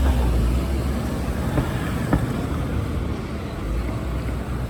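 Street traffic noise: a steady low rumble of vehicle engines, with one short sharp click about two seconds in.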